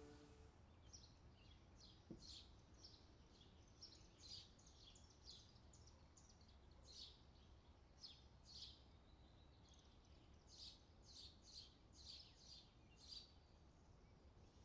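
Faint bird chirps: short, high calls coming about two a second in loose runs, with a pause around the middle, over a low background hiss.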